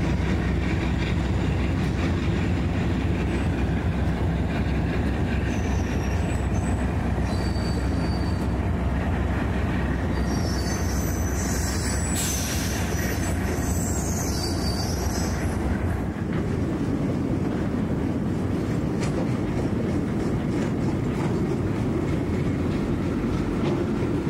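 Railroad cars rolling through a rail yard with a steady low rumble, and high-pitched steel wheel squeal that comes and goes through the middle. The low rumble eases about two-thirds of the way through.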